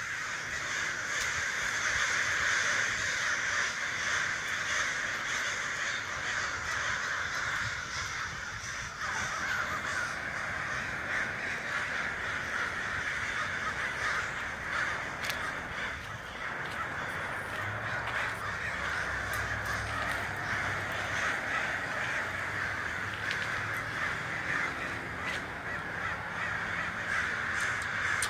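A large flock of American crows cawing all at once, the calls overlapping into a continuous dense chorus, as crows do when gathering at sunset.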